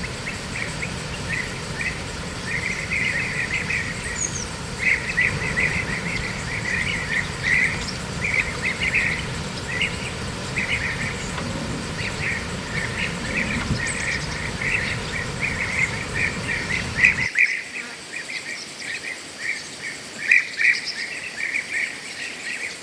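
Rapid, repeated high chirping from outdoor wildlife, with a low rumbling noise underneath that cuts off suddenly about three-quarters of the way through.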